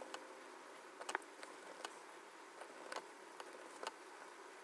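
A few faint, sharp clicks, about a second apart, from small parts of a smartphone being handled and pressed together during reassembly.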